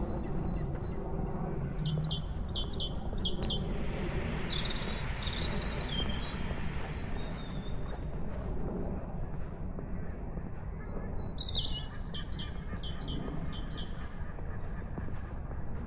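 Small songbirds chirping in quick runs of short high notes, twice, over a steady low outdoor rumble, with a soft rush of noise in the middle.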